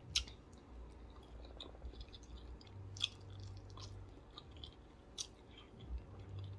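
Close-up chewing of a mouthful of broccoli and baked potato, faint, with a few sharp mouth clicks; the clearest come near the start, about three seconds in and about five seconds in.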